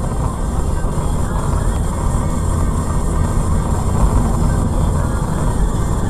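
Steady vehicle driving noise: low engine and road rumble with no impact.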